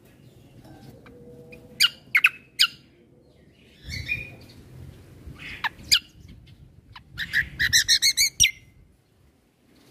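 Kecial kombo (cucak kombo) songbird singing: a few sharp separate chirps, then a fast trill of about eight repeated notes near the end.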